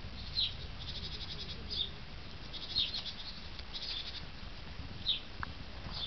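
Small birds chirping: short, high, falling chirps every second or two over a rapid buzzing trill, with a steady low background rumble.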